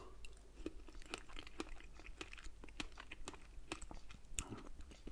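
Close-miked chewing of a fresh strawberry, with irregular small wet mouth clicks several times a second.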